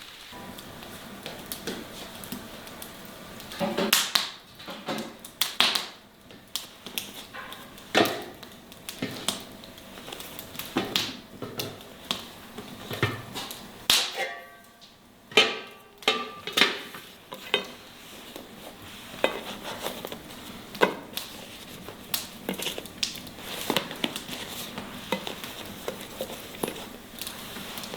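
Dishes and utensils being handled: irregular clinks, knocks and taps, some a few seconds apart and some in quick clusters.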